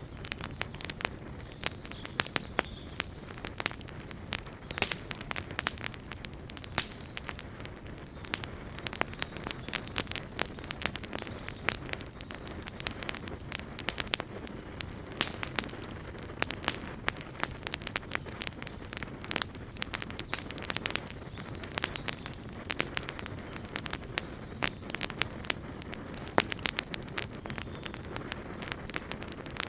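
Wood fire burning, with constant irregular crackling and popping over a low steady rumble of the flames.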